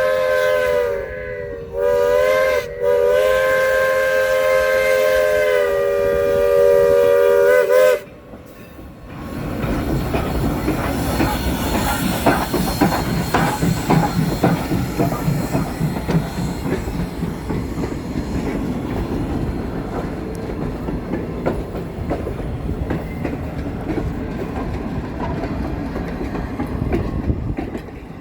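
Steam locomotive's chime whistle blowing several tones at once: two short blasts, then a long blast that cuts off about eight seconds in, each sagging in pitch as it starts. Then the steam train runs past with a steady rumble and rhythmic clatter of wheels over the rails.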